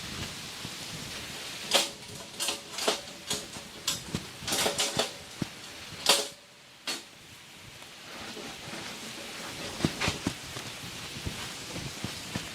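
Steady rain hiss, with a run of sharp short rustles and knocks in the middle; the rain briefly quietens just after them.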